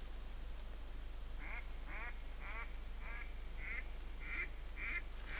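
A duck call blown by a hunter to draw ducks to the decoys: a series of about eight quacks, roughly two a second, each dropping in pitch, in the pattern of a mallard hen's calling.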